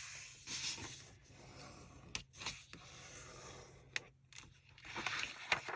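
Paper being handled, folded over and creased by hand: soft rustling and scraping with a few sharp clicks and taps.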